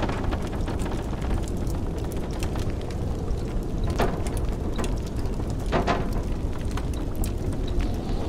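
Wood fire crackling in a fireplace, with scattered small snaps and two louder pops about four and six seconds in, over the steady low rumble of blizzard wind.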